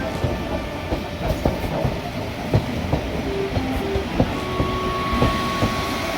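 Small narrow-gauge electric train of the Sangi Railway Hokusei Line running on 762 mm track, a steady rumble with irregular sharp clacks of the wheels over rail joints. A faint steady whine comes in about halfway.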